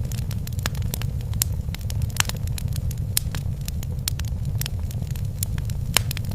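Wood fire crackling in a fireplace: a steady low rumble of burning with frequent irregular sharp pops and snaps, a few louder ones about two seconds in and near the end.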